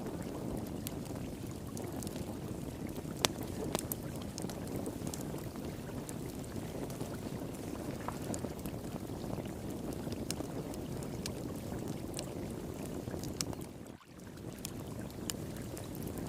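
A wood fire crackling with scattered sharp pops over the steady rush of flowing water. The loudest pop comes about three seconds in, and the sound drops out for a moment near the end.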